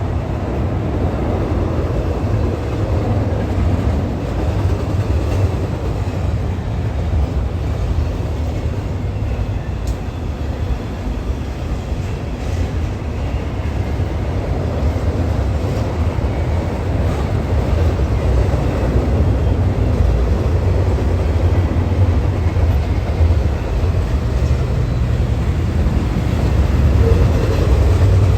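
Train rolling past with a loud, steady low rumble that holds throughout.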